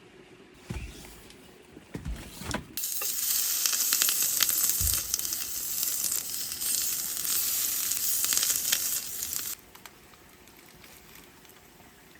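Food sizzling loudly in a hot pan, starting suddenly about three seconds in and cutting off abruptly near the end, after a few low knocks of cookware being handled.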